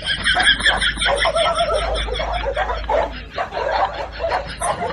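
A person snickering: a quick, unbroken run of short laughs.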